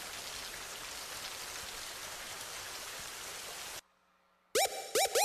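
Steady rain falling, an even hiss of raindrops that cuts off suddenly a little under four seconds in. After a short gap, electronic music starts with quick rising scratch-like swoops.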